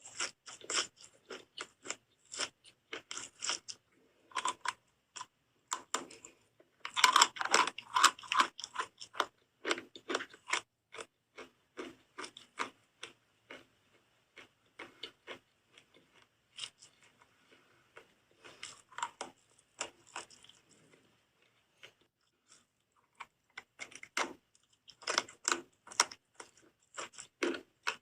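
Close-up crunching and chewing of soap by a person, many crisp crackly bites. It is busiest about a quarter of the way in and again near the end, with sparser, quieter chewing in between.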